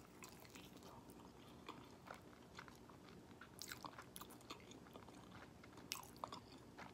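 Faint chewing and biting into a honey barbecue fried chicken wing: soft, scattered crunches and wet mouth clicks, a little louder about four and six seconds in.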